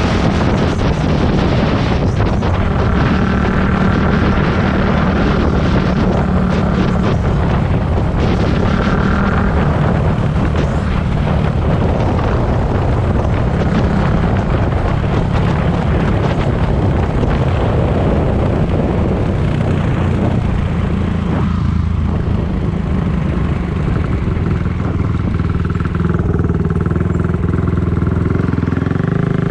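Four-stroke dirt bike engine running while being ridden, its note fairly steady, under a heavy rush of wind noise.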